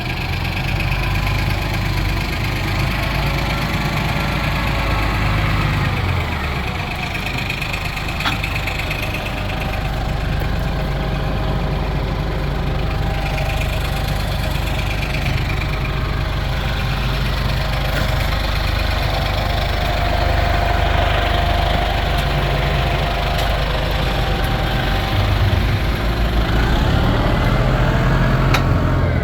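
Case IH 695XL tractor's diesel engine idling steadily, with an occasional sharp click.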